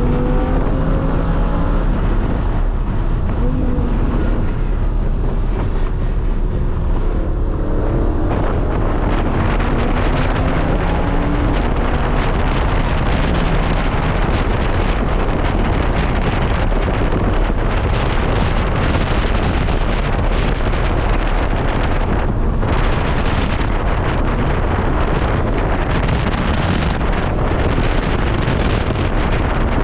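Lamborghini Huracán's V10 pulling hard on a race track, its pitch climbing in several short rises like run-ups through the gears, under heavy wind and road rush at speed that takes over from about twelve seconds in.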